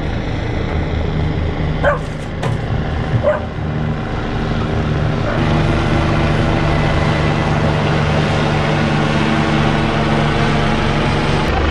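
Helicopter running with a steady, even drone that grows louder about five seconds in. A dog barks a few times about two to three seconds in.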